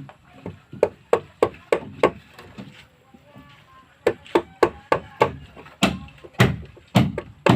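A tool striking wood again and again in sharp, separate blows, about three a second, with a pause of about a second midway, while a wooden boat part is being worked.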